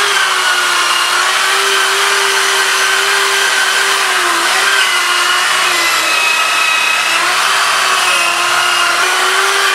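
Electric power tool running steadily under load, a loud whine with a hissing edge, its pitch wavering slightly as the load changes.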